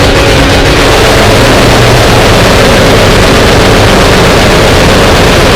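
Harsh noisecore: a loud, unbroken wall of distorted noise with a low drone underneath.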